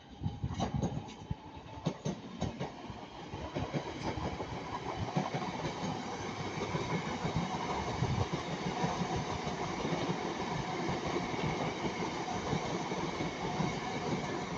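A pair of class 323 electric multiple units passing slowly. Wheels click over rail joints at first, then the running noise rises about four seconds in and holds steady.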